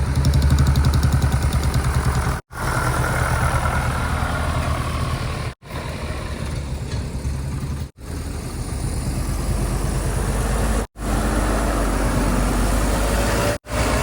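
Heavy diesel machinery engines running, heard across a string of short clips spliced together, with the sound dropping out sharply at each of five cuts.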